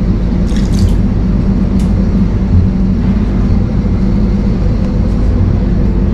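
Steady loud rumble and hum of a moving Indian Railways passenger coach, heard in the door vestibule, with a few faint clicks between about half a second and two seconds in.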